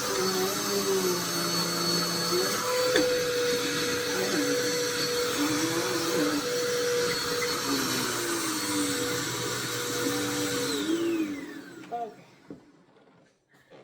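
Vacuum cleaner running steadily, with a motor whine over wavering lower tones. About eleven seconds in it is switched off and the whine falls away as the motor spins down, leaving a few faint knocks.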